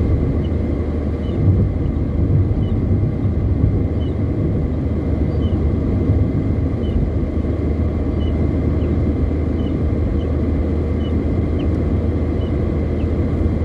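Car driving on the highway, heard from inside the cabin: a steady low road and engine rumble, with a faint regular tick about every 0.7 seconds.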